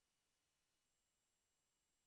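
Near silence: digital silence between spoken numbers.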